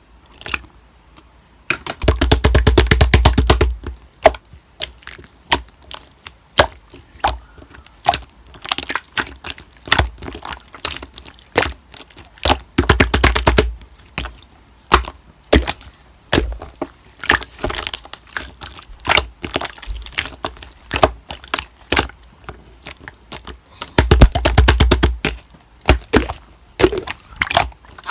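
Slime being squeezed and pressed by hand, popping and crackling as air pockets burst: single sharp pops, with three stretches of rapid crackling, about 2 seconds in, around the middle, and near the end.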